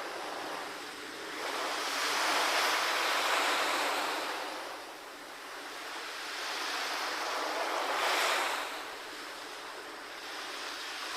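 Ocean waves washing in, a steady surf hiss that swells and eases twice, most strongly about two to four seconds in and again near eight seconds.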